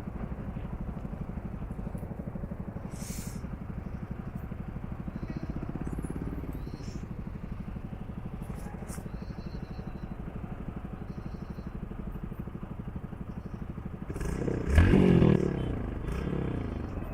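Motorcycle engine running steadily while riding. About fourteen seconds in, a louder sound with a shifting pitch rises for a couple of seconds, then fades.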